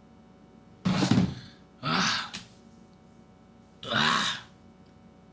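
Three short, breathy exhalations from a man, a second or two apart, with a little voice in them.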